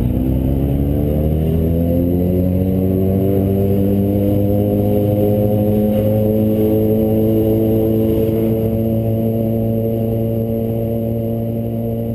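A motorcycle engine running, its pitch rising over the first couple of seconds and then holding steady, easing off slightly near the end.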